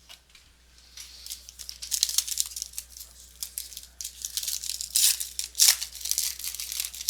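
A baseball card pack wrapper being torn open and crinkled by hand, in irregular crackling bursts that start about a second in and are loudest past the middle.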